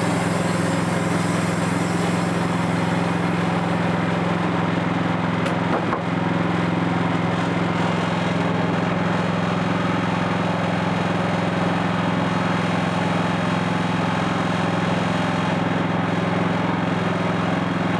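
Engine of a Wood-Mizer portable band sawmill running at a steady speed, with one brief dip about six seconds in.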